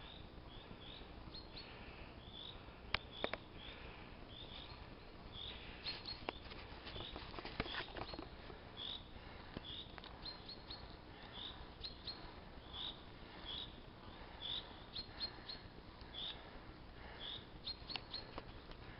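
Short, high bird chirps repeated every second or so over a steady low rustle, with a few sharp clicks.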